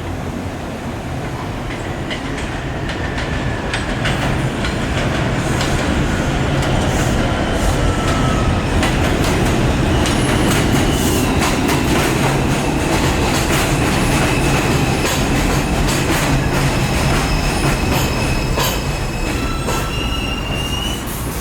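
R142 subway train pulling into the station and braking: wheels clattering over the rail joints under a heavy rumble, a whine falling in pitch over the first several seconds, then high steady wheel and brake squeal that rises near the end as it slows to a stop.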